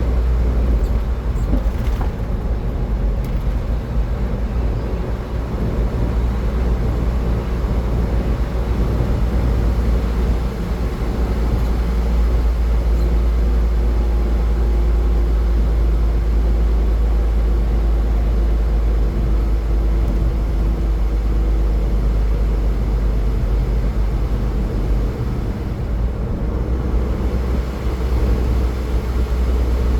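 Car driving at highway speed: a steady low rumble of road and tyre noise with the engine underneath, unchanging throughout.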